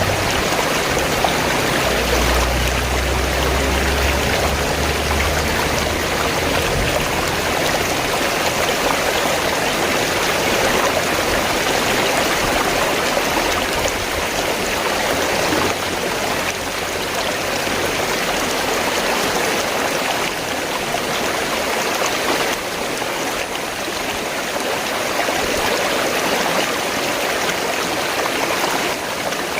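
Rushing river water, a steady, even wash of flowing-water noise, with a low rumble underneath for the first several seconds.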